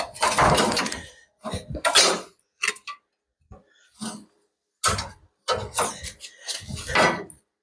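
Irregular metal clanking and scraping of tools and suspension parts being handled, in short bursts with brief gaps between them.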